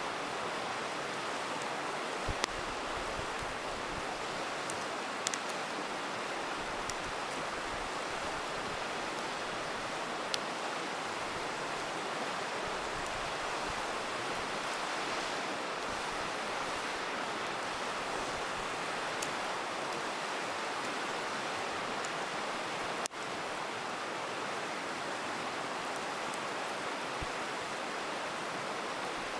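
A river rushing steadily, with a few sharp crackles and pops from a wood campfire scattered through it.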